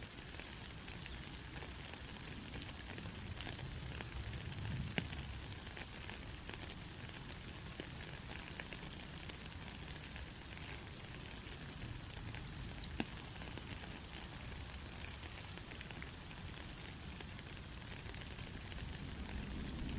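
Steady white noise played as a baby sleep aid: an even hiss with a low rumble beneath and faint scattered crackles.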